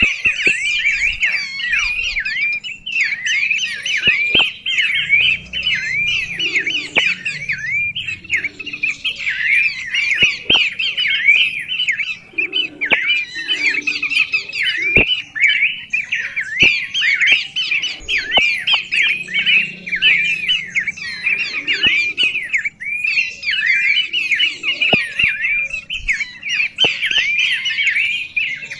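A songbird singing a rapid, continuous chattering song of high chirps that sweep up and down, broken by a few brief pauses, with occasional sharp clicks.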